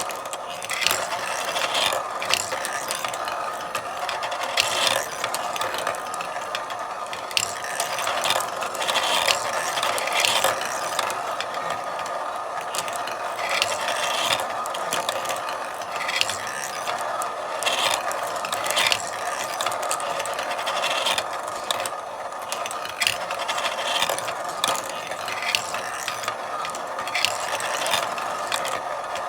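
Marbles rolling along a marble run: a continuous rolling rumble with frequent irregular clicks and knocks as the marbles hit the track and each other.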